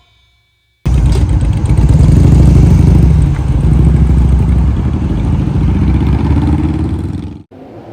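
Motorcycle engine running loudly and steadily, with a slight rise in pitch near the end. It starts abruptly about a second in and is cut off suddenly shortly before the end.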